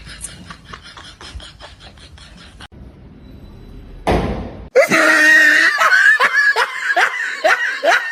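Faint rapid ticking, a sudden short loud burst of noise about four seconds in, then loud laughter in rapid repeated bursts.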